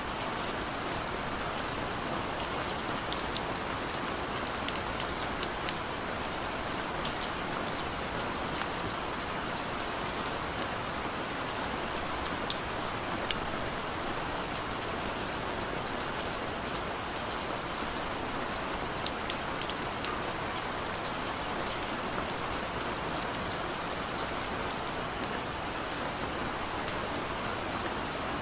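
Steady rain falling, an even hiss with many scattered individual drop ticks on a surface.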